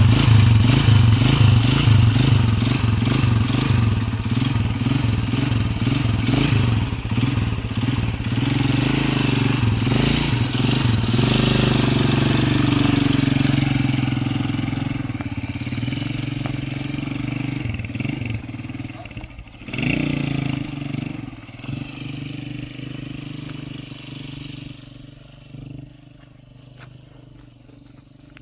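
A motor vehicle's engine running steadily, loud at first, then fading gradually over the second half, with a brief swell about two-thirds of the way through.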